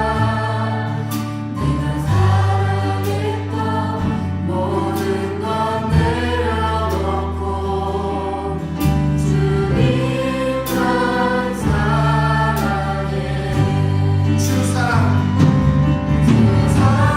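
A church praise band with singers performing a worship song: sustained bass notes, keyboard or guitar chords and voices singing together, with regular drum and cymbal strokes.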